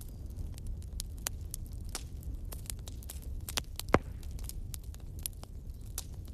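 Wood campfire burning: scattered crackles and snaps over a steady low rumble, with one loud pop about four seconds in.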